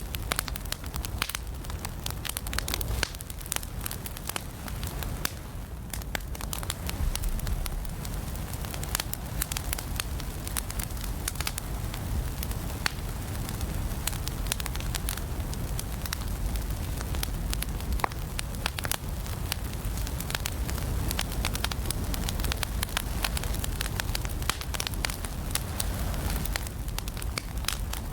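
Wood fire burning in an indoor fireplace: irregular sharp crackles and pops over a steady low rumble of the flames.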